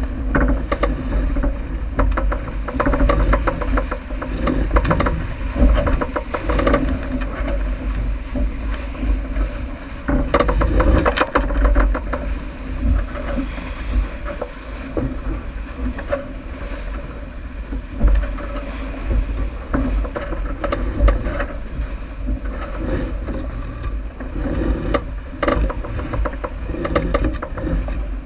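On board a J80 sailboat running downwind: steady wind and water noise with a strong low rumble, and many short clicks and knocks scattered throughout.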